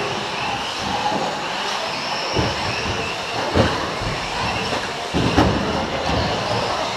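Electric four-wheel-drive 1/10 short course RC trucks racing, their brushless motors whining as they rise and fall in pitch, with sharp clattering knocks about two and a half, three and a half and five and a half seconds in.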